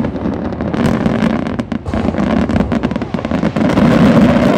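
Aerial fireworks bursting in quick succession: a dense string of overlapping bangs and crackles.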